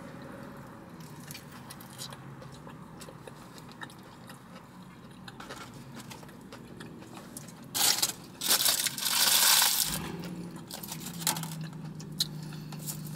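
Close-up biting and chewing of a spicy chicken sandwich, with soft crunching mouth sounds. About eight seconds in come a couple of louder hissing bursts, and a steady low hum sets in near the end.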